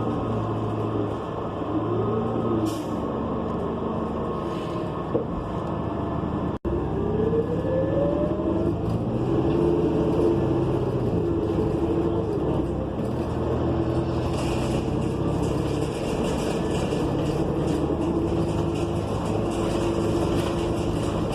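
Cabin sound aboard a New Flyer XN40 natural-gas bus: its Cummins Westport ISL G engine and Allison B400R automatic transmission running as the bus drives, the engine note shifting up and down with a rising whine a few seconds in. The sound cuts out for an instant about six seconds in.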